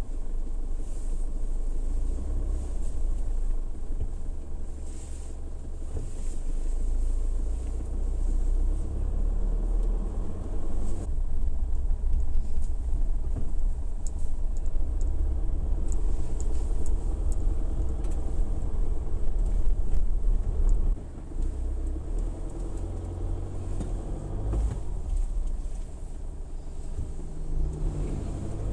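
Motor vehicle running with a steady low rumble, easing a little about 21 seconds in.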